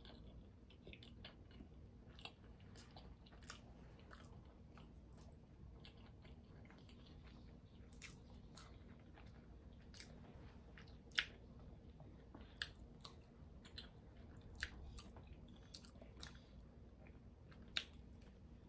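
A person chewing a burger with soft, wet mouth sounds, with scattered short sharp clicks and smacks throughout.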